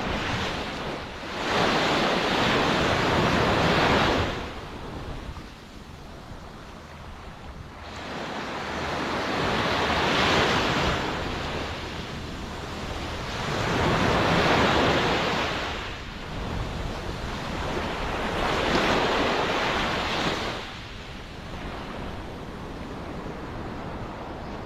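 Ocean waves breaking and washing ashore: four surges of surf that each build and fade over a few seconds, with a softer steady hiss of water between them.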